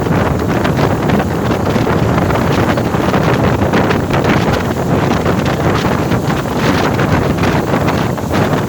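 Wind buffeting the microphone over the steady running noise of a passenger ferry under way.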